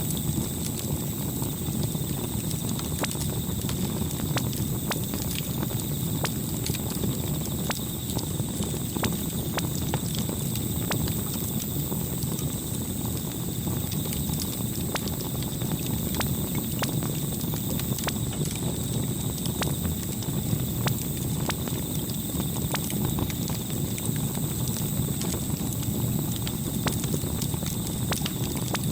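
Campfire burning, with frequent irregular crackles and pops of the wood over a steady low rush of flame.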